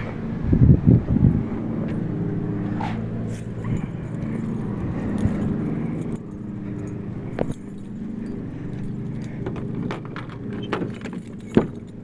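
1998 Dodge Ram 1500's 360 V8 running through a true-dual 2.5-inch exhaust with shorty headers, Flowtech glasspacks and no catalytic converters, with a steady, deep exhaust note. It is loudest in the first second or so, then settles into a steady idle. Scattered clicks and rattles sound over it.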